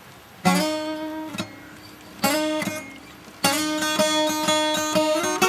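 Acoustic guitar being strummed: a single ringing chord about half a second in, another about two seconds later, then steady rhythmic strumming from about three and a half seconds in.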